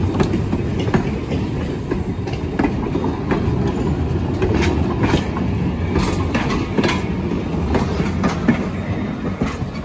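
Heritage railroad passenger coaches and a caboose rolling past close by: a steady rumble of steel wheels on the rails with irregular sharp clicks and clacks from the wheels running over the track.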